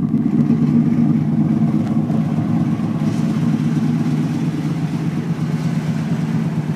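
1976 Chevrolet K5 Blazer's 383 small-block V8, built with forged pistons and a forged crank, idling steadily.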